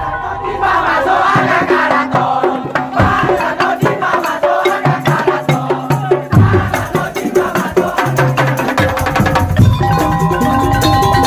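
Madurese tong-tong (ul-daul) ensemble playing loud, dense, fast-driving percussion, with some held pitched notes over the beat.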